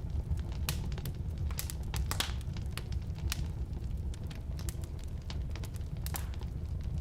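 Firewood burning in a fireplace or wood stove: a steady low rumble of the flames with irregular sharp crackles and pops from the burning wood, about a dozen in a few seconds.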